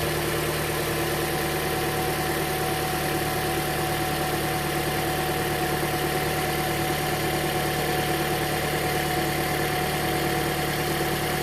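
2009 Toyota Matrix's 1.8-litre 2ZR-FE four-cylinder engine idling steadily. It is running smoothly with no misfire on any of its four cylinders, after repair of the burnt gasket that had caused a cylinder 4 misfire.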